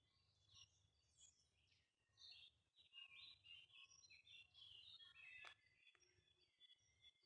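Faint songbird singing: a quick run of short, varied chirping notes, busiest and loudest in the middle, with a single sharp click about five and a half seconds in.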